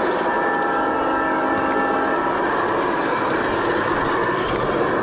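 G-scale model Santa Fe Dash 8 diesel locomotive's onboard sound system blowing its horn, a chord of steady tones that cuts off about two seconds in. Under it runs the steady rolling rumble of the train's wheels on the track.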